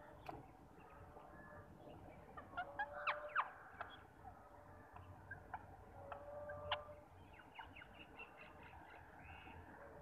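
Birds chirping: scattered short, sharp chirps, a cluster about three seconds in and another near seven seconds, then a quick run of small chirps, over faint outdoor background noise.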